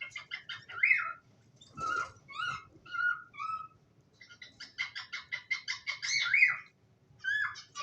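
Cockatiels chirping and whistling: bursts of quick chirps and short rising whistled notes, with brief pauses between the bursts.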